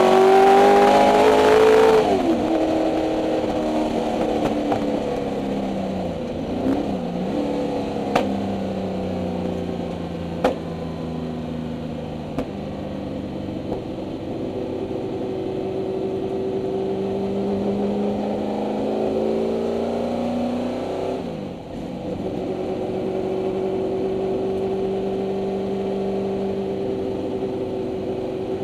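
Ford 289 Windsor V8 of a 1964 Mustang race car heard from inside the cabin: it pulls hard with rising revs for the first couple of seconds, then the throttle closes and the revs fall, with a quick dip and rise about six to seven seconds in. It then runs at a steadier, lighter throttle with slow swells in pitch, drops and picks up again about 21 seconds in, with a few sharp clicks around 8 and 10 seconds.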